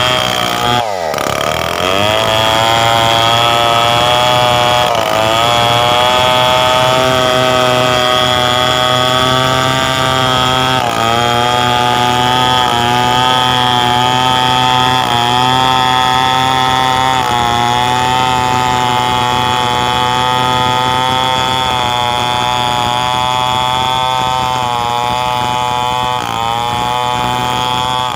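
Stihl 070 two-stroke chainsaw running at high revs under load while ripping a coconut trunk into beams, its pitch sagging briefly now and then as the chain bites and recovering. A sharp drop and climb in revs comes about a second in.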